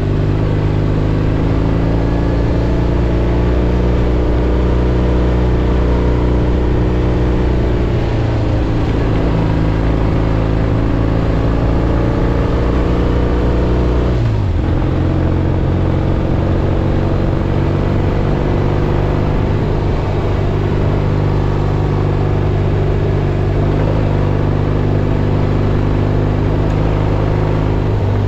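1967 Triumph Bonneville T120's 650 cc parallel-twin engine running steadily under way, heard from the rider's helmet camera. About halfway through the engine note drops sharply and picks up again at a new pitch.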